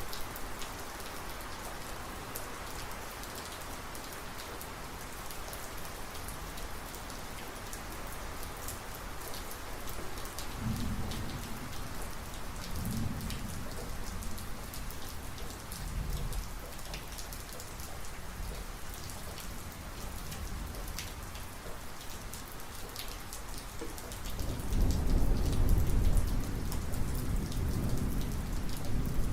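Heavy rain falling steadily, with individual drops ticking, while thunder rumbles low: two short rolls about eleven and thirteen seconds in, then a louder, longer roll starting near the end.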